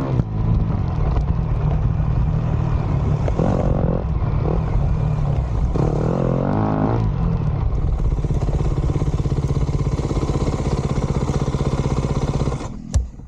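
Dirt bike engine running under throttle, its pitch rising and falling as it revs a couple of times, then holding a steadier drone before it cuts off abruptly near the end.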